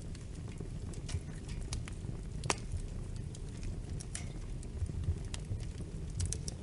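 Wood fire crackling in a fireplace: irregular sharp pops and snaps over a low steady rumble, with one louder pop about two and a half seconds in.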